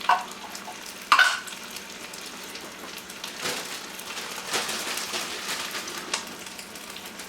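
Stir-fry vegetables sizzling in oil in a hot skillet: a steady crackling hiss. There are two sharp knocks about a second apart near the start, and bursts of crackles in the middle.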